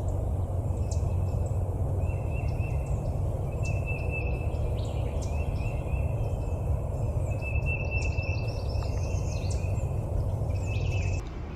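Woodland birds calling, a string of short, repeated trilling calls with a few higher chirps, over a steady low rumble that stops near the end.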